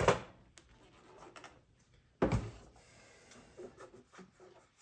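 Handling noises: light rubbing and small clicks, with one sharp knock a little over two seconds in.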